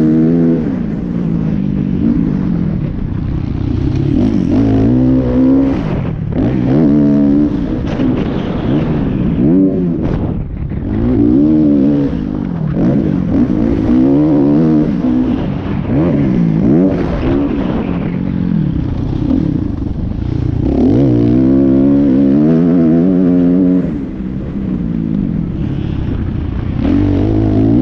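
Motocross motorcycle engine revving hard, its pitch climbing and dropping over and over as the throttle is opened and shut.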